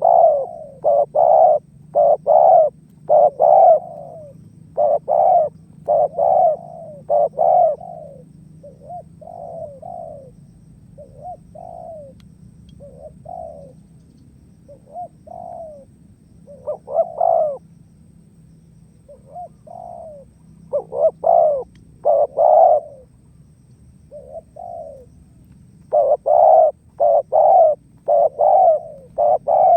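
Spotted dove (tekukur) cooing over and over in its 'menguku' call: runs of short, quick coos, loud at first, softer and sparser through the middle, then loud again near the end.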